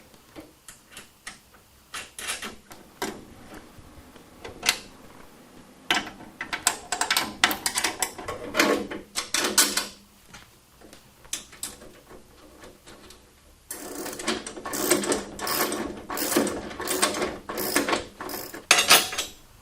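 Ratchet wrench clicking in quick runs of many clicks, with short pauses between, as bolts are turned.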